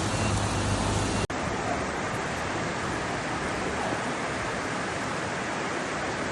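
Steady rush of fast-flowing floodwater. About a second in the sound cuts off abruptly and carries straight on as a similar steady rush.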